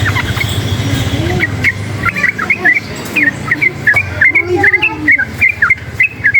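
Sooty-headed bulbul (trucukan) singing a rapid run of short, chirpy notes, over a steady low rumble of background noise.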